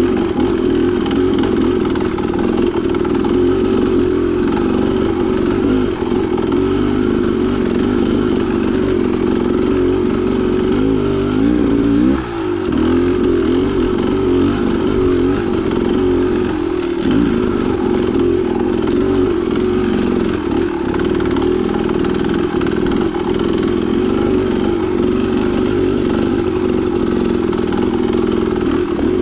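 Dirt bike engine running steadily as the bike is ridden along a trail, with the revs rising and dropping briefly about twelve seconds in.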